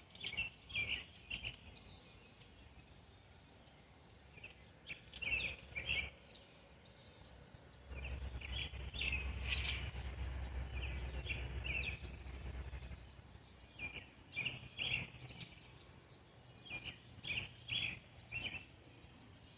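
Small birds chirping in short repeated bursts. A low rumble rises for about five seconds in the middle, and a few faint clicks sound along with it.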